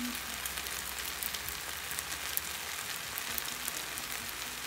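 Stir-fried rice noodles with mung bean sprouts and vegetables sizzling in a stainless steel pan on the stove: a steady hiss with many small crackles.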